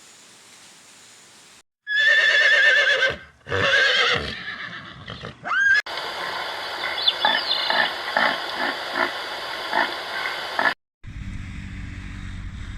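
Horse whinnying: a long, wavering neigh, then a second shorter one, then a brief rising call. After an abrupt cut, a steady noisy background with a regular knocking of about two to three strokes a second takes over.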